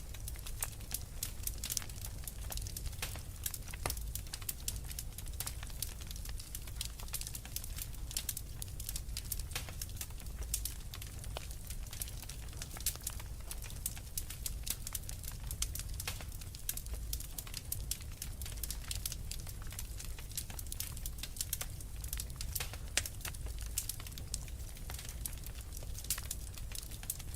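Wood fire in a fireplace crackling steadily: many small irregular snaps over a low, even rumble.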